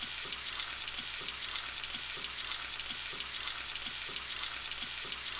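Shrimp and chopped garlic frying in olive oil in a nonstick skillet: a steady sizzle with fine crackling. Faint regular ticks come about twice a second.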